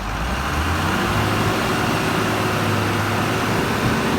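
A heavy vehicle engine running with a steady low hum, swelling louder over the first second and then holding.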